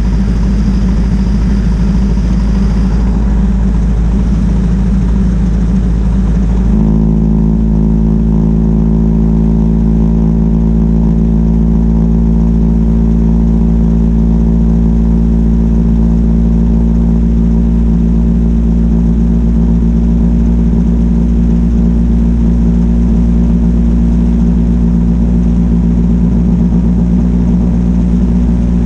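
A Ford Model T's four-cylinder engine running steadily at highway cruising speed, with a heavy rush of wind and road noise. About seven seconds in the hiss drops away abruptly and a steady, pitched engine hum is left, holding unchanged.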